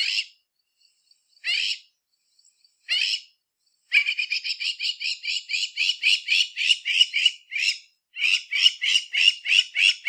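A Southern African bird calling: three single short notes about a second and a half apart, then a fast run of repeated notes, about four a second, with a brief break near the end.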